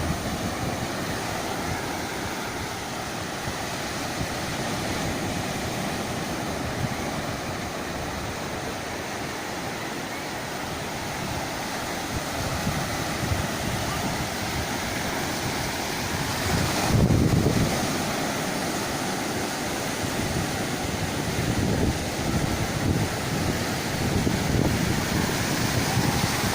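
Rough sea surf breaking and washing on the shore, stirred up by a strong thunderstorm, with wind buffeting the microphone. One wave breaks louder about two-thirds of the way through.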